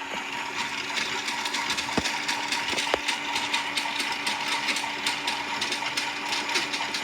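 Toy washing machine's small motor running, a steady hum with a fast, dense clicking rattle of its plastic mechanism, and a couple of sharper clicks about two and three seconds in.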